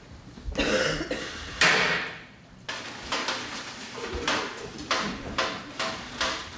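Kitchen pots and pans being banged and clattered as stage percussion: two loud crashes in the first two seconds, then a run of sharp strikes about two a second.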